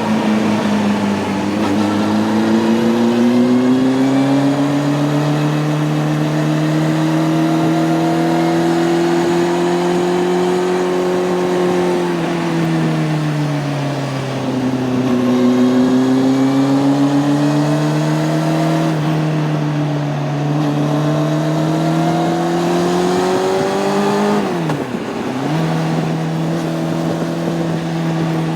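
Honda CB600F Hornet's inline-four engine heard from on board while riding. The pitch climbs slowly and eases off about twelve seconds in, then climbs again. About 25 seconds in the note drops sharply and picks up at once, as at a gear change, then settles to a steady note.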